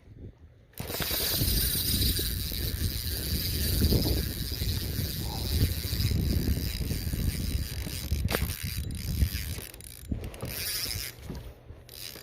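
Fishing reel being cranked steadily, a continuous mechanical whirring with a faint whine. It starts abruptly about a second in and eases off near the end.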